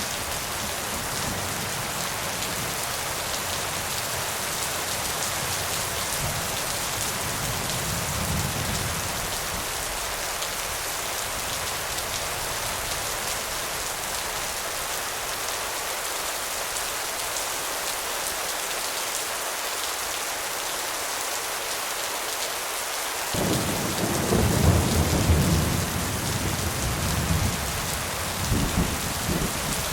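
Steady rain falling in a thunderstorm. A low roll of thunder comes in suddenly about three quarters of the way through and is the loudest thing heard, rumbling on to the end, with a fainter rumble earlier on.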